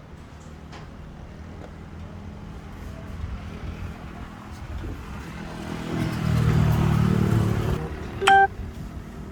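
A motor vehicle's engine grows louder as it passes close, then fades. Near the end comes one short horn beep.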